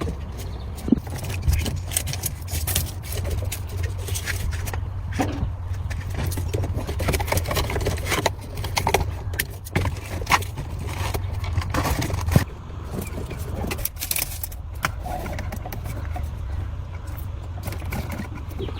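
Irregular metallic clinks, knocks and scrapes, as of tools and parts being handled on the truck, over a steady low rumble that drops a little about twelve seconds in.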